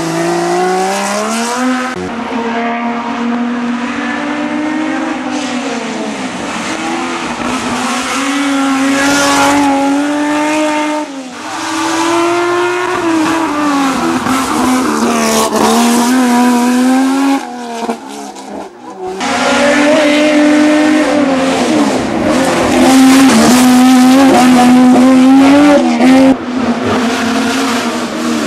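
Porsche 911 SC's air-cooled flat-six engine at full racing throttle, its note climbing hard through each gear and dropping back at each shift and lift, over and over. It fades briefly about two-thirds through, then comes back at its loudest.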